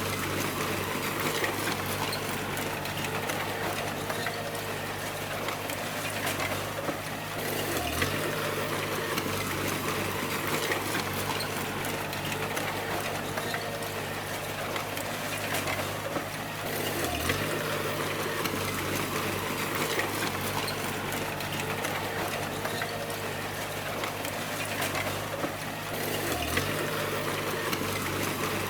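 Bulldozer's diesel engine running steadily under work, with clattering tracks. The engine note dips briefly and recovers three times, about every nine seconds.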